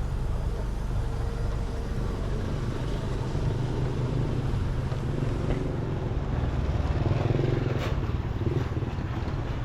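Steady low engine rumble of a motor vehicle, with a continuous noisy background.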